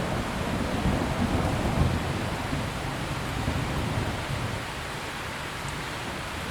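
Steady rain with the low rumble of rolling thunder, which fades away over the first few seconds, leaving the rain alone.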